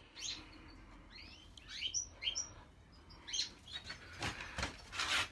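Caged finches chirping and twittering in short rising and falling notes, with a few short rustles near the end.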